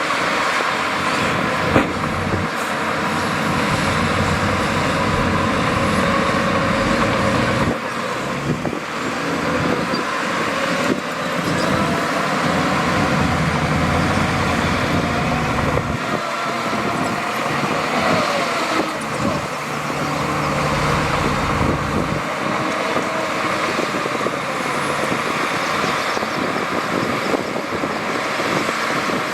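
Heavy diesel earthmoving machinery running continuously, its engine pitch rising and falling in the middle as it revs under load.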